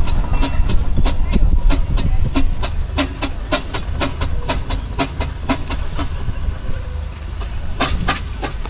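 Steam engine working past with quick, regular exhaust beats, about four a second, over a low rumble, with two sharper beats near the end.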